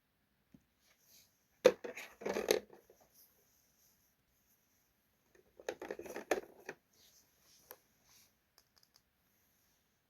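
Items being handled and set down while a mini fridge is stocked: a sharp knock about a second and a half in, then a short run of clatter and rustling, and a second cluster of knocks and clicks about four seconds later, followed by a few faint ticks.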